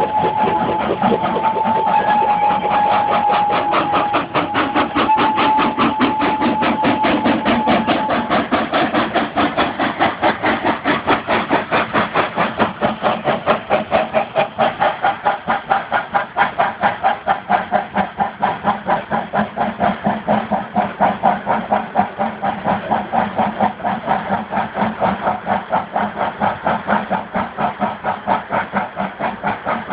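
Steam locomotive working hard, its exhaust beating in a rapid, even rhythm. A steady high tone sounds over it for about the first eight seconds, then stops.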